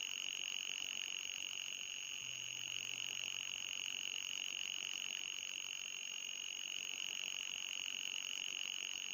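Synthesised 'anti-mosquito' repellent tone: a steady, high-pitched electronic sound with a thin, higher whistle above it, unchanging throughout. It is well within normal hearing rather than truly ultrasonic.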